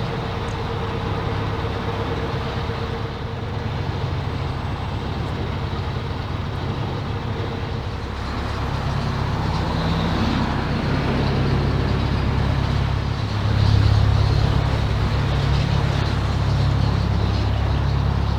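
Narrowboat's diesel engine running steadily, growing louder a little after two-thirds of the way through.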